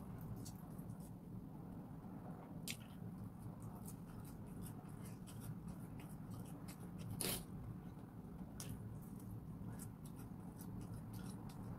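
Close-up chewing and biting of fried skewered street food: many small wet mouth clicks and crunches, with one louder crunch about seven seconds in, over a steady low room hum.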